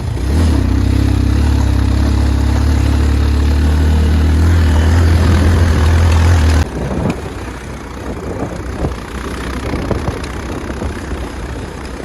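Motorcycle engine running at a steady note on a rough track. About two-thirds of the way in, the note cuts off suddenly, leaving a quieter, uneven rumble with scattered knocks and rattles.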